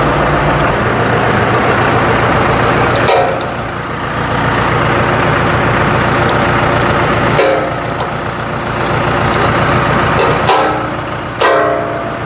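Tractor engine running steadily, with several short metallic clanks as the three-point hitch and its hydraulic top-link cylinder are worked to connect an implement.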